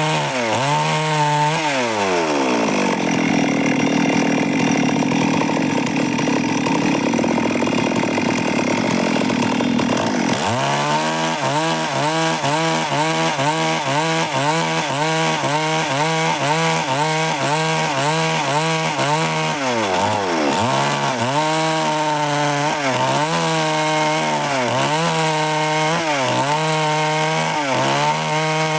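Stihl MS 382 two-stroke chainsaw cutting wood at high revs. Its pitch drops as the chain bites into the cut, and a stretch of dense sawing noise follows. Later the engine pitch rises and dips in a steady rhythm about once or twice a second as the cut goes on, and it drops again near the end.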